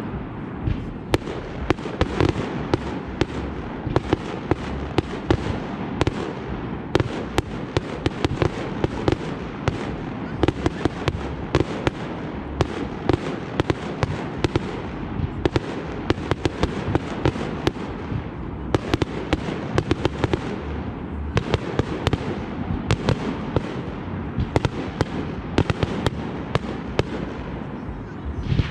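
Fireworks going off in rapid succession: a dense barrage of sharp bangs and pops over continuous crackling.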